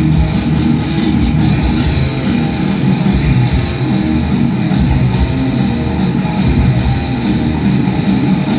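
Live heavy metal band playing an instrumental passage: distorted electric guitars over bass and a drum kit, loud and continuous.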